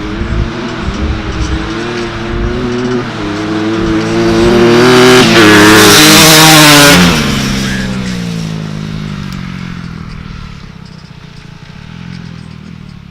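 Dirt bike engine passing at speed: it grows louder as it approaches, is loudest about five to seven seconds in, drops in pitch as it goes by, and fades away.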